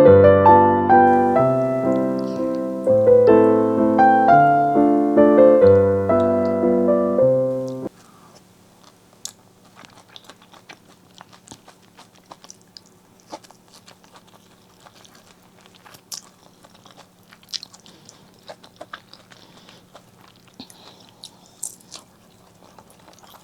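Piano music for about eight seconds, cutting off abruptly into close-miked eating sounds: biting and chewing pork leg and rice, with sharp wet clicks and small crunches over a faint steady hum.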